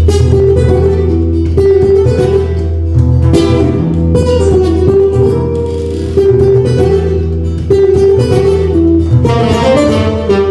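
Live instrumental music from a small group, with a plucked guitar prominent over a steady low bass.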